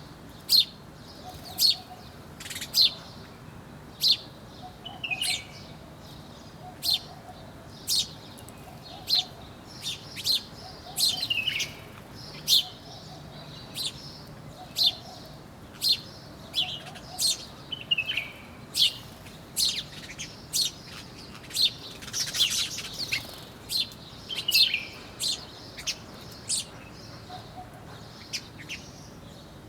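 Birds chirping: short, sharp, very high chirps that sweep steeply downward, roughly one a second, with a few quick falling trills between them.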